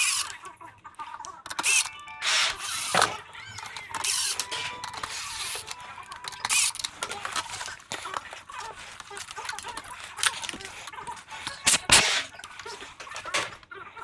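Irregular clicks, knocks, scrapes and brief squeaks of plastic air-conditioner panels and parts being handled and fitted during disassembly, with a sharp knock about 12 seconds in.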